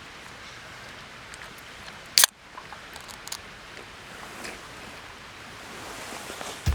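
Steady outdoor background hiss with one sharp, loud click about two seconds in and a few faint ticks.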